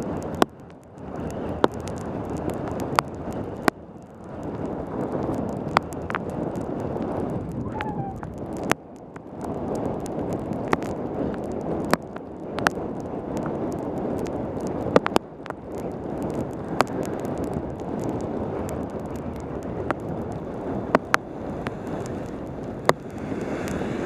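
Wind rushing over a helmet-camera microphone on a fast bicycle descent in heavy rain, with sharp clicks scattered irregularly through it.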